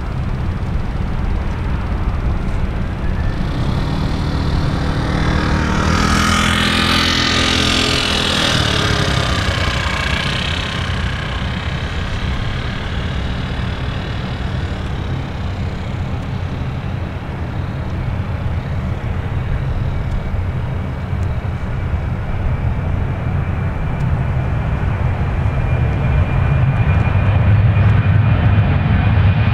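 Steady outdoor rumble, with a vehicle passing by about seven seconds in, its sound sliding down in pitch as it goes. Near the end the high whine and low rumble of the Boeing 737-800's jet engines on landing approach start to grow louder.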